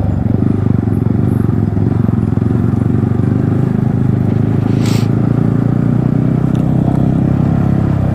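Yamaha MT-15's 155 cc single-cylinder engine running steadily through an aftermarket Akrapovic exhaust. A single sharp click about five seconds in.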